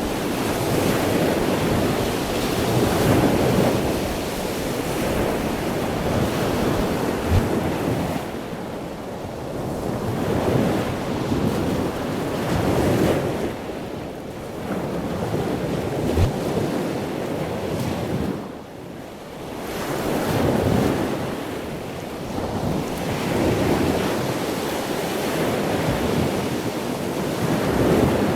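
Sea waves breaking and washing up on a beach, the surf swelling and falling away every few seconds, with wind buffeting the microphone.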